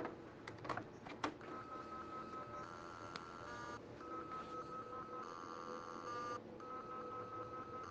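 Western Digital hard drive making a strange repeating electronic tone. A few sharp clicks come in the first second or so; then a steady high tone alternates with a harsher multi-tone buzz, with a short break about every two and a half seconds.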